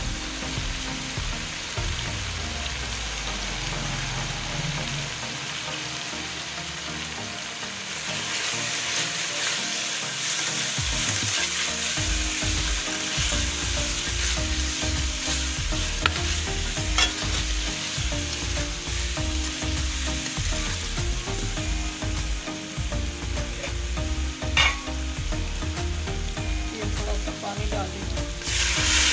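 Onion-tomato masala with ground spices sizzling in hot oil in a pan while a metal spoon stirs and scrapes it. A few sharp clinks of the spoon against the pan, one louder about three-quarters of the way through.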